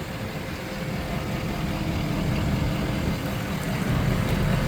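Ford F550 bucket truck's engine idling steadily, a low even rumble.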